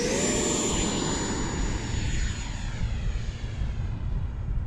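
E-flite Viper's electric ducted fan running at high throttle: a steady high-pitched whine, held level after spooling up just before, over the rumble of wind on the microphone.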